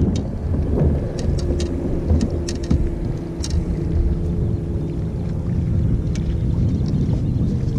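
Wind rumbling on the microphone and water noise from a boat under way, with a steady motor hum that dips slightly in pitch near the end and a few faint light clicks.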